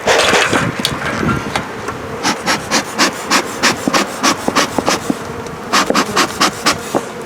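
Honeybees buzzing steadily as one faint tone, under a loud rustle at the start and then a quick run of sharp crackling clicks, about three a second.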